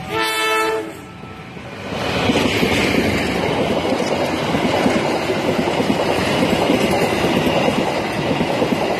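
A passenger train's diesel locomotive sounds one short horn blast near the start. From about two seconds in, the train runs close by, its wheels clattering loudly and rapidly over the rails.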